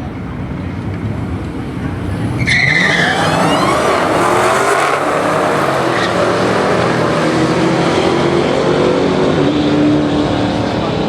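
Drag-racing cars idling, then about two and a half seconds in a sudden hard launch: tires squeal briefly and the engines rev up, their pitch climbing and dropping several times as the cars accelerate away.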